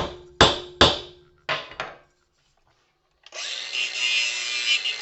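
Five hammer blows in quick succession smash a porcelain lamp-holder shell. A little over a second later a power grinder starts up and runs steadily with a rough grinding noise.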